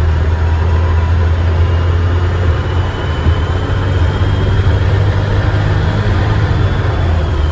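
Euro 2 Dennis Trident double-decker bus's diesel engine running steadily with a deep drone, heard from inside the bus, with a faint high turbo whistle that slowly rises in pitch.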